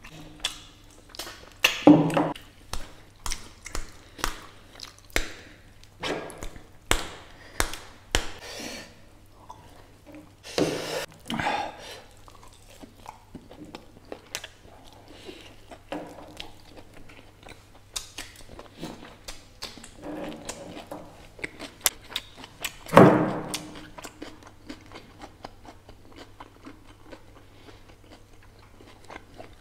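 Close-miked eating of mutton bone-marrow curry and rice by hand: chewing with many short wet mouth clicks and lip smacks, and a few louder, longer mouth sounds, one about two seconds in and one near twenty-three seconds. A steady low hum runs underneath.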